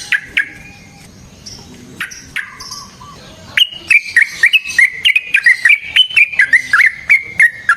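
Yellow-vented bulbul (trucukan) singing: a few separate chirps, then from about halfway a fast, loud rolling run of bubbling notes, about five a second.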